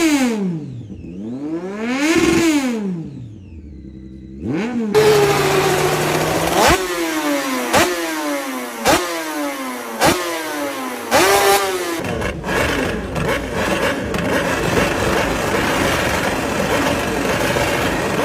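Superbike engines revving hard: the pitch rises and falls a few times, then comes a run of sharp cracks about once a second, each followed by falling revs, and finally a dense, steady high-revving scream.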